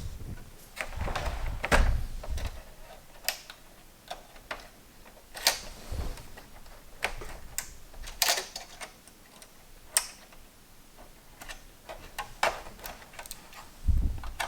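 Irregular clicks, taps and a few dull knocks of small parts and tools being handled during work on a PS3 Slim console.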